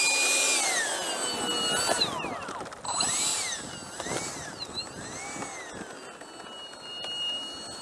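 Freewing F-22's 90 mm electric ducted fan whining, its pitch rising and falling several times with the throttle, then holding a steadier, lower whine near the end.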